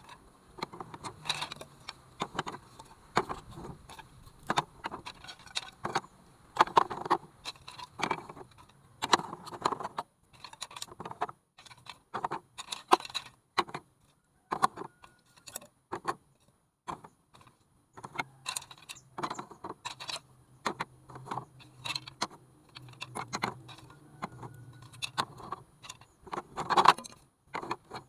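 Radio-controlled model truck driving, with irregular rattling and clattering throughout and a faint low hum from its small motor that comes and goes.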